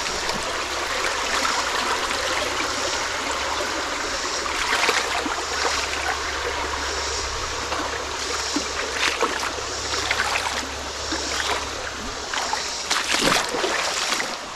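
Creek water flowing steadily, with a few brief sharper crackles here and there.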